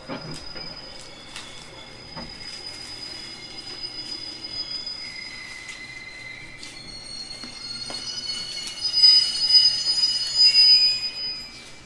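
JR Kyushu 811 series electric train running, heard from inside a car: several steady high-pitched whining tones over the low rumble, growing much louder about nine seconds in and falling away near the end.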